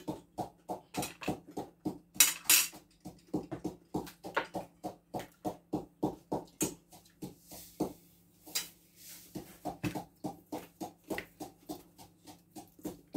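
Close-up chewing of food, a steady run of wet crunchy chews about three a second, with a couple of brief rustles.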